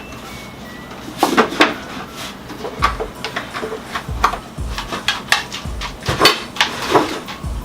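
Spoons clinking and scraping against cereal bowls in irregular, sharp strokes, some with a short ring, as two people eat cereal.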